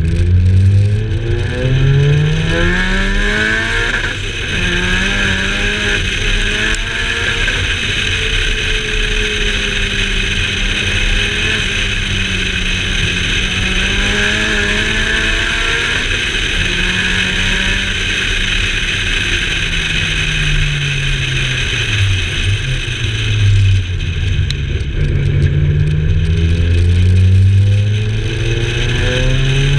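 Car engine pulling up to speed, then running fairly steadily, dropping away about twenty-two seconds in and picking up again, with steady wind and tyre noise on the car's flank.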